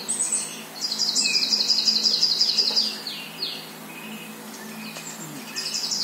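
Songbird singing on a TV nature video's soundtrack, heard through the TV speaker: a fast trill of high, repeated notes, about seven a second, lasting a couple of seconds and ending in a few slower falling notes, then starting again near the end.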